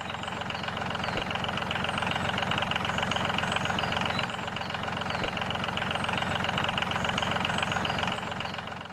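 An engine running steadily at idle with a fast, even pulse, fading out near the end.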